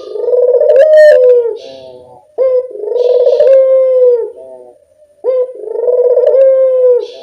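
Puter doves (Barbary doves) cooing: long, drawn-out coos repeated about every two and a half seconds, the kind of calling played as a lure to draw in puter doves.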